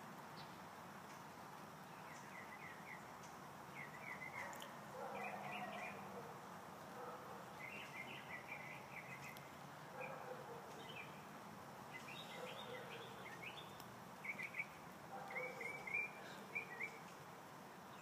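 Faint outdoor background with small birds chirping in short, quick clusters of high chirps, repeated every second or two through most of the stretch.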